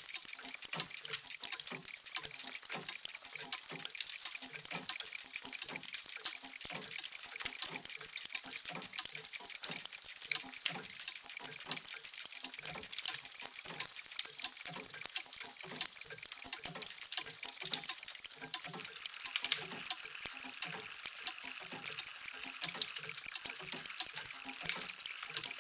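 Many mechanical clocks ticking at once, their overlapping ticks forming a dense, irregular stream of clicks.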